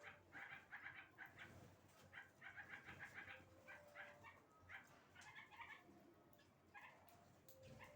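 Faint, high-pitched chirping of small birds, short calls coming in quick clusters, easing off for a moment about six seconds in.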